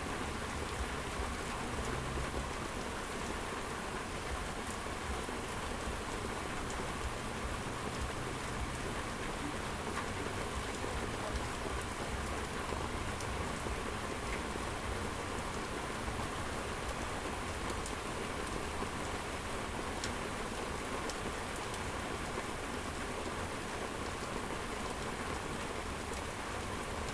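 Heavy rain pouring steadily, a constant hiss with a few faint scattered drop ticks, picked up by a laptop webcam microphone set out in the storm.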